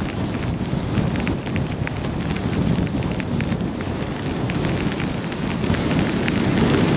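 Blizzard wind rushing over the microphone: a steady low rumble with many small ticks through it.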